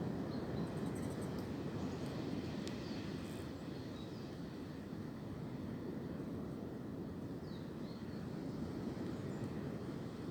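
Wind blowing steadily, a low noise without pitch, with a few faint high chirps now and then.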